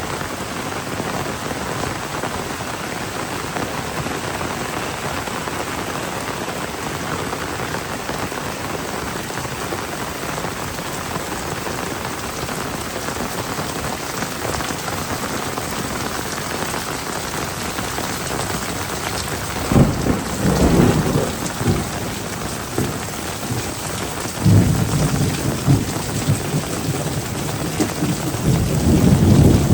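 Heavy rain pouring steadily, with rumbles of thunder in the last third, three of them.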